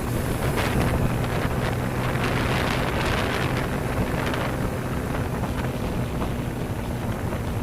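Wind buffeting the microphone on a moving motorcycle, over the steady hum of the bike's engine.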